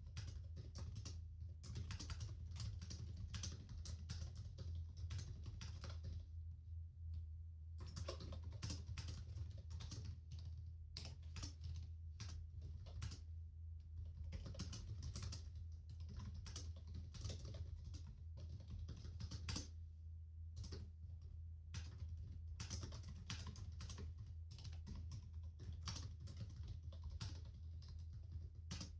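Laptop keyboard typing: quick runs of key clicks broken by brief pauses, over a steady low hum.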